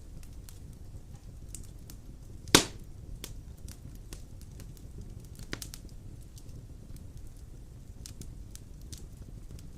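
Fire burning in a fireplace, crackling steadily over a low rumble, with a loud single pop about two and a half seconds in and a smaller one a few seconds later.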